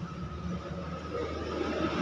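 An engine running steadily: a low, even hum with a faint thin tone above it.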